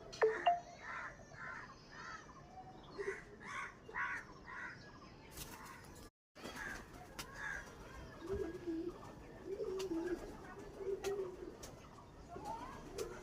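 Domestic pigeons cooing in a loft: low, warbling coos recur in the second half. In the first half there is a run of evenly spaced higher-pitched calls, and a few light clicks throughout.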